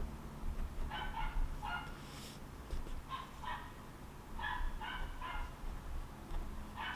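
An animal outside calling in short, pitched bursts, about nine calls in clusters of two or three, over a low steady background hum.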